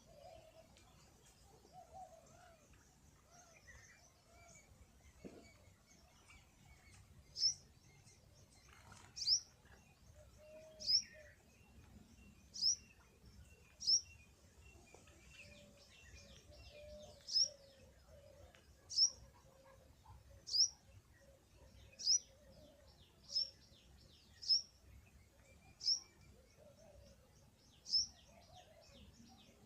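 A bird calling with a series of short, high, single chirps, about one every second and a half, starting several seconds in.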